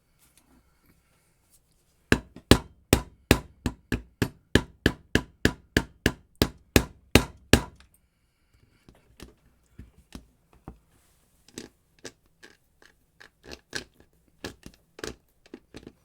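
A rapid run of hammer blows, about three or four a second, on an angle grinder's gearbox, driving the gear head down to seat the gears into mesh. After a few seconds it gives way to lighter, irregular taps.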